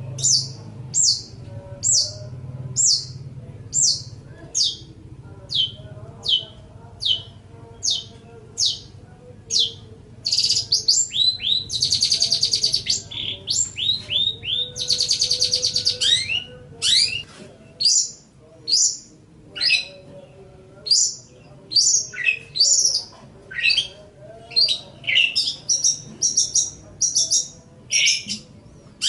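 Long-tailed shrike (cendet) singing: a string of sharp, falling high notes repeated about one and a half times a second, then two dense buzzy trills around the middle, then a quicker run of varied sweeping notes.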